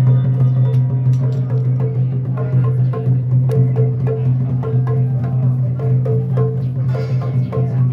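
Ritual percussion music: short woodblock-like knocks in a quick, even beat over a constant low drone.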